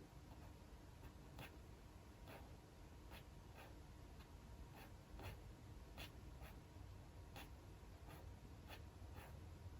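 Faint, scattered light clicks and taps from desk work, one or two a second at an uneven pace, over a low steady room hum.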